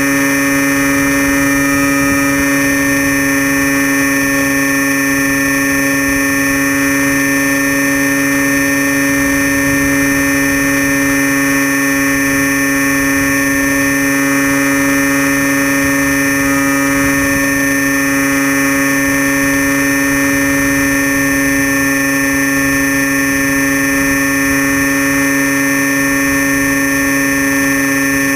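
Electric motor and propeller of a Crashtesthobby Storm Chaser RC plane, heard up close from the airframe: a loud, steady hum at one fixed pitch, held at constant throttle.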